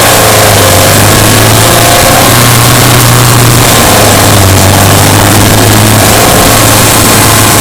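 Subaru Impreza Sport's flat-four boxer engine running steadily while driving, its pitch rising and falling a little, over continuous road noise.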